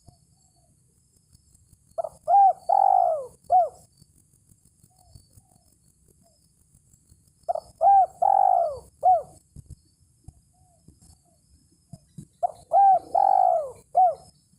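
Spotted dove (tekukur) cooing: three phrases about five seconds apart, each a few short coos with one longer, drawn-out coo near the end. It is a challenge call to a rival male, used to lure doves.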